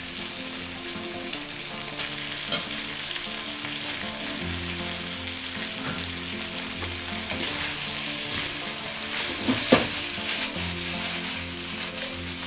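Pork and broccoli sizzling in hot oil in a wok while being stir-fried, with a spatula scraping and clicking against the pan. A louder clatter comes about ten seconds in as the wok is tossed.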